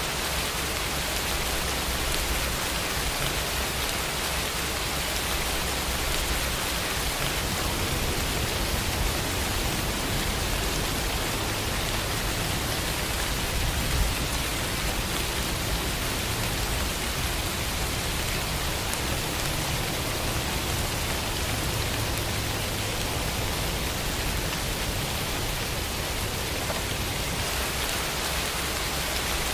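Steady rainfall, a dense even hiss of rain on surfaces, with a low rumble underneath that swells slightly midway.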